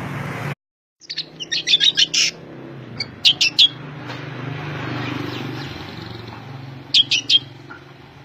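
A songbird calling in three quick bursts of rapid high chirps, the first the longest, over a steady low hum.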